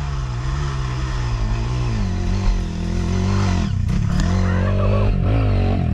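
Dirt bike engine revving hard under load, its pitch rising and falling as the throttle is worked, with a brief drop about four seconds in before it pulls up again.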